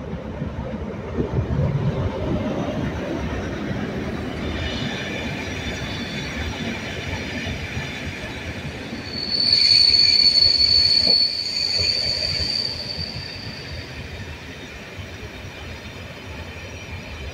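Train of inspection coaches and class 43 HST diesel power cars running slowly past on the platform line: a low rumble from the leading power car and wheels, then a high-pitched squeal from the wheels on the rails, loudest for a few seconds in the middle and fading towards the end.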